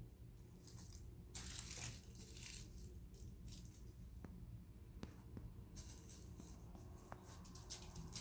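Crinkle ball crackling in short bursts as a kitten bats and pounces on it. The loudest burst comes about a second and a half in, and a run of quick crackles fills the last couple of seconds.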